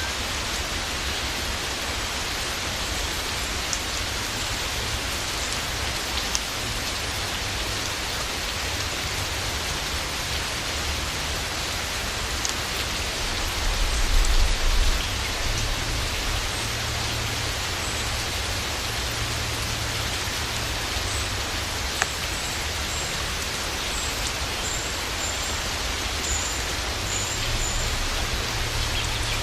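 Steady rain falling on garden foliage, with an occasional sharper drop tick. A low rumble swells briefly about halfway through, and faint high bird chirps repeat in the later part.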